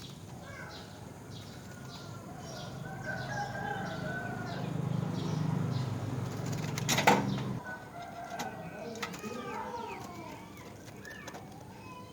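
Birds calling and chirping in short, varied calls, over a steady low hum that stops about two-thirds of the way through. A single sharp click comes just before the hum stops.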